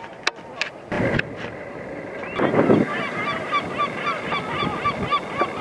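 A bird calling over and over, short evenly spaced notes about four a second, starting about halfway through. A short rush of noise comes just before the calls begin.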